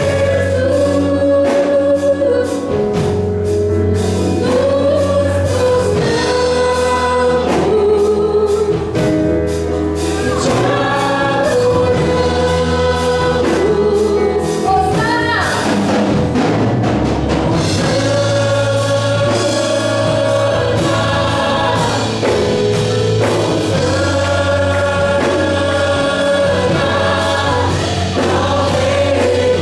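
Gospel worship song: several voices singing together over a band, with a steady bass line and drums.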